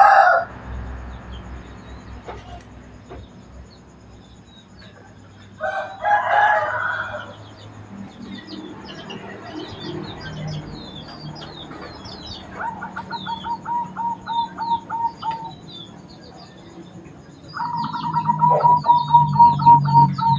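A rooster crows twice, right at the start and again about six seconds in. Between and after the crows, other birds call: small birds chirping high, and runs of rapid, evenly repeated notes from about twelve seconds on.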